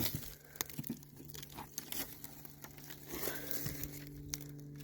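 Scattered crinkling and rustling clicks of dry debris and nest material being handled as a cover board is lifted, over a faint steady low hum.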